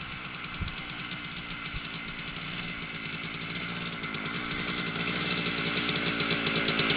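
Voskhod 3M motorcycle's single-cylinder two-stroke engine running with an even firing beat, growing steadily louder.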